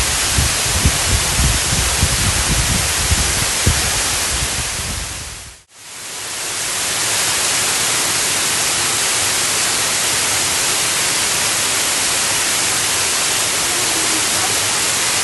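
Stream or waterfall water rushing with a steady, even hiss, with uneven low bumps in the first few seconds. The sound dips away briefly about five and a half seconds in and fades back up to the same steady rush.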